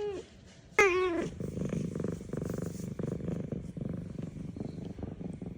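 F2 Savannah cat giving one short, falling meow about a second in, then purring steadily.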